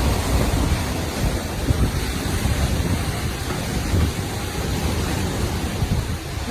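Storm wind gusting hard against the microphone in uneven low rumbles, over a steady rush of wind and surf.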